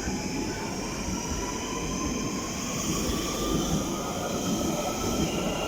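London Underground Central line train pulling out of the station, its traction motors giving a whine that rises slowly in pitch as it gathers speed over the steady rumble of the wheels.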